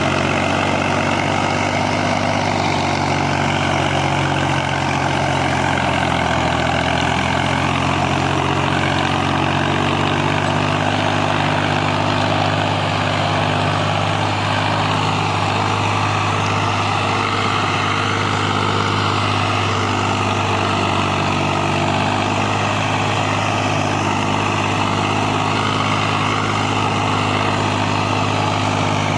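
Tractor's diesel engine running steadily while ploughing, an even drone that holds the same pitch throughout.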